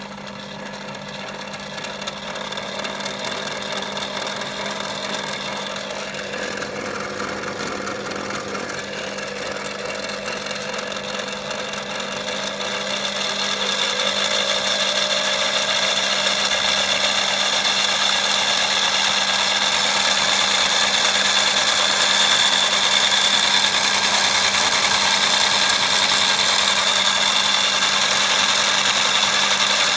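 Real washing machine motor running in a toy washing machine, a steady electric hum and whir that grows louder about halfway through.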